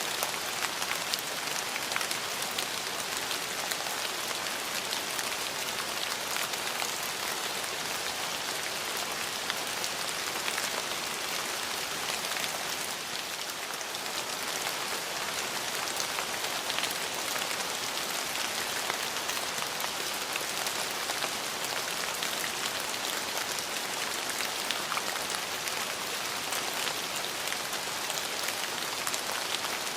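Steady rain falling: an even hiss of rain, with many small drop ticks throughout.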